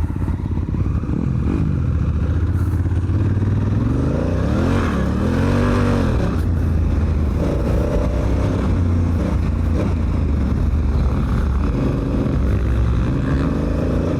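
Honda Africa Twin's parallel-twin engine being ridden hard, revving up and down over and over, with a big climb and fall in pitch about five seconds in.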